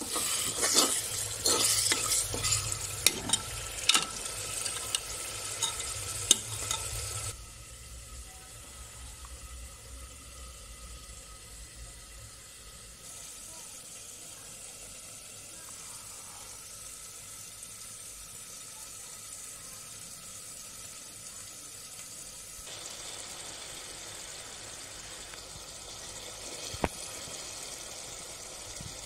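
A spoon clinking and scraping against a metal pot while chicken biryani masala fries and sizzles. After about seven seconds the stirring stops and only a quieter steady hiss remains, with one sharp click near the end.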